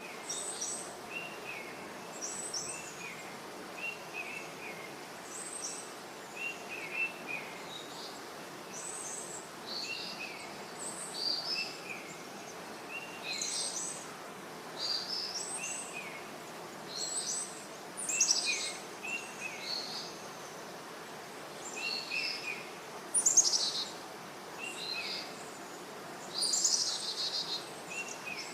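Songbirds chirping in a forest, short phrases repeating every second or two, some lower-pitched and some higher. A steady faint hiss of ambient noise lies underneath.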